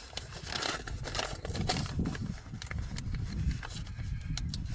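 Close-up chewing and lip-smacking of someone eating chicken: irregular wet clicks and smacks, over a low steady rumble.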